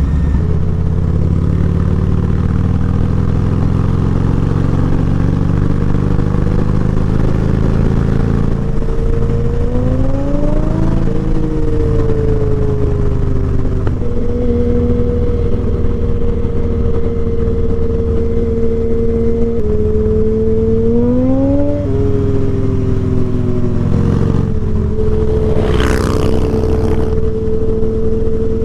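Harley-Davidson V-twin engine running under way, its pitch twice rising as it accelerates and then stepping down as it shifts up. A brief hissing burst comes near the end.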